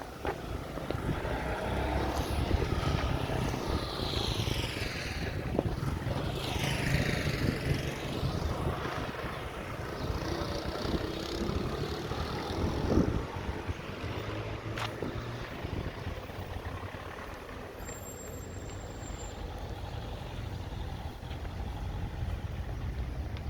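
Road traffic passing close by on a main avenue: engine rumble and tyre noise of passing vehicles, loudest in the first several seconds, then a steadier background of traffic.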